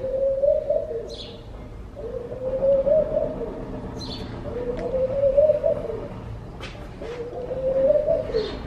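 A bird cooing in low, drawn-out phrases repeated about every two seconds, with three short, high chirps from another bird in between.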